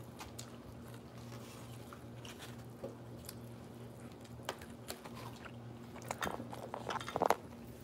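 Close-up eating sounds: a person biting and chewing food, with soft wet clicks and smacks that grow busier and louder near the end, over a low steady hum.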